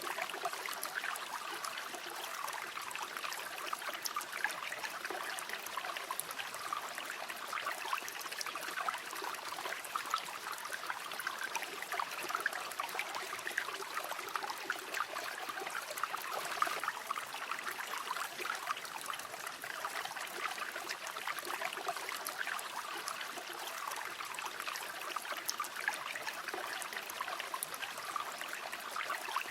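A shallow river flowing steadily, with a constant babble of small splashes and trickles over stones.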